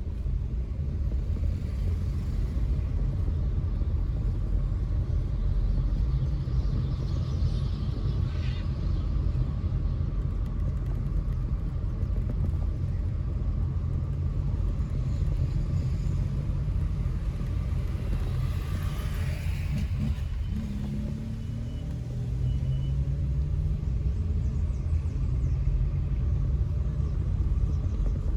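Car driving through town streets: a steady low rumble of engine and road noise. About twenty seconds in it eases off briefly, then the engine note rises as the car picks up speed again, with brief swells of passing traffic noise about eight and nineteen seconds in.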